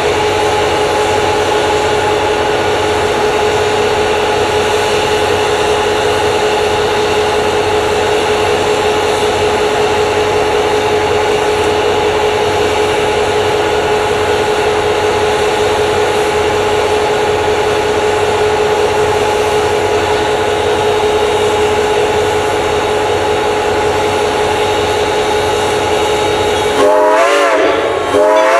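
Reading & Northern 4-6-2 steam locomotive No. 425 and its train running, a steady rushing noise with a constant tone under it. Near the end its Southern Railway six-chime whistle starts to blow, its pitch bending up and down.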